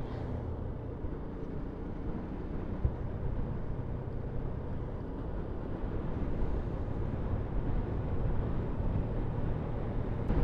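Yamaha MT-125's 125cc single-cylinder four-stroke engine running steadily while riding, with a rush of riding noise over it, a little louder in the second half.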